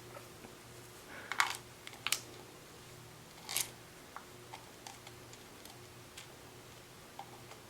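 Scattered light clicks and taps of ice cubes being handled and knocked in a tub by a baby squirrel monkey, a few louder ones in the first few seconds and smaller ticks after, over a faint steady hum.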